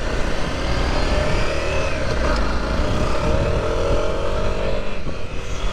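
Motorcycle engine running under way, mixed with heavy wind noise on the microphone; a few seconds in the engine note climbs as it accelerates, then dips briefly near the end.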